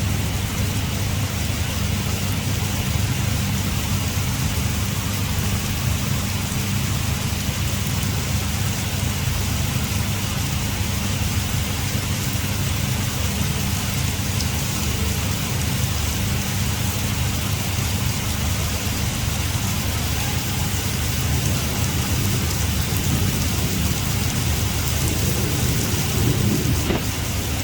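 Heavy rain pouring steadily, with a steady low rumble underneath.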